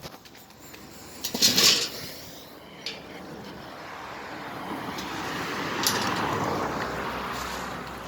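A short clatter about a second and a half in, then a vehicle passing on a road, its noise swelling to a peak and slowly fading.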